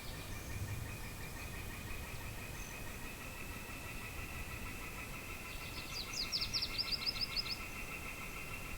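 Outdoor morning ambience: a steady, finely pulsed high trill runs throughout over a faint low wind rumble. About six seconds in, a bird sings a quick run of a dozen or so short high notes lasting about two seconds.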